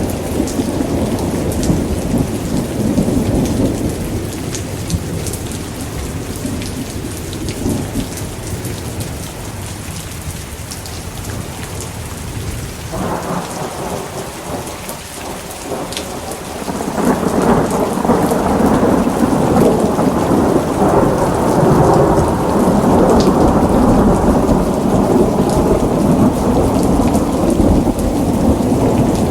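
Thunderstorm: steady rain falling with rolling thunder. The rumbling eases off in the middle, then a louder, longer roll of thunder builds about halfway through and carries on to the end.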